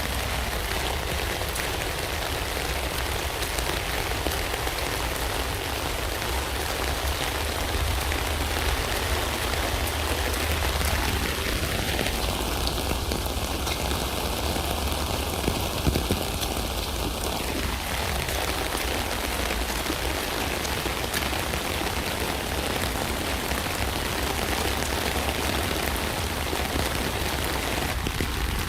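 Steady rain falling on a tent, an even patter of drops with a heavy low rumble underneath.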